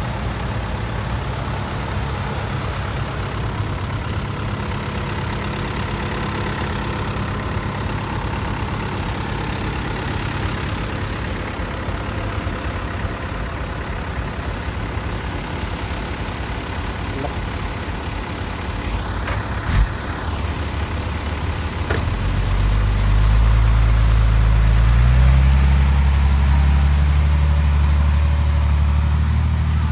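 Caterpillar hydraulic excavator's diesel engine running steadily, then revving up louder and higher about two-thirds of the way through and holding there. A single sharp knock sounds shortly before the rev.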